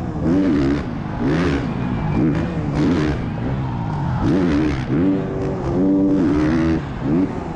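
Motocross bike engine heard close from a camera mounted on the bike, revving hard and chopping the throttle over and over through a rhythm section of jumps, its pitch climbing and falling about once a second. A longer held rev near the end drops off sharply, with bursts of wind rush over the microphone.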